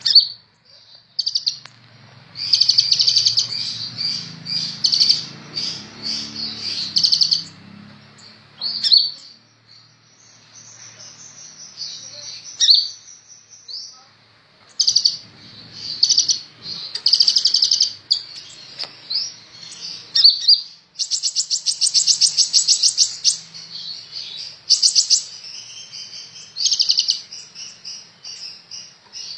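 Sunbird singing: bursts of high, sharp chirps and rapid trills, with one long fast trill about two-thirds of the way through.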